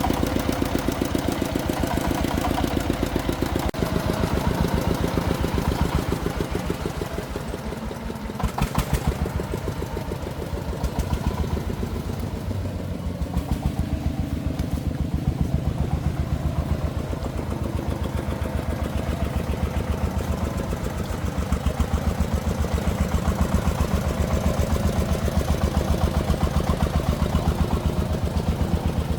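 Single-cylinder diesel engine of a công nông agricultural truck running steadily with an even, rapid chugging beat. There is a brief clatter about nine seconds in.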